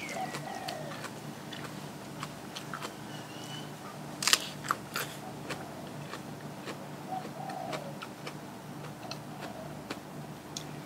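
A person chewing and biting food close to the microphone, with small wet clicks and crunches throughout. The sharpest crunches come a little after four seconds in.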